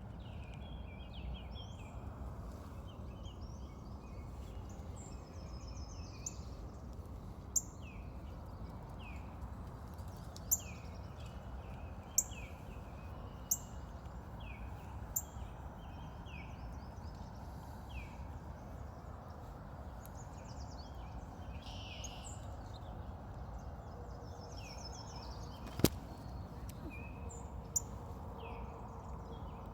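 Small birds calling: scattered short chirps and downward sweeps, with several sharp, high chip notes. Underneath runs a steady low rumble, and there is one sharp click about 26 seconds in.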